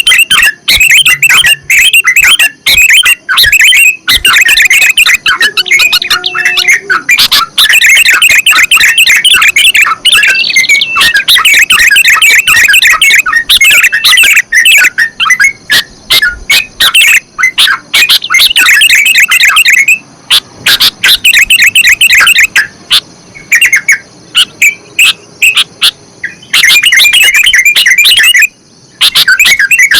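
Sooty-headed bulbul and yellow-vented bulbul song: loud, rapid chattering phrases almost without pause. There is a brief break about two-thirds of the way in and another near the end.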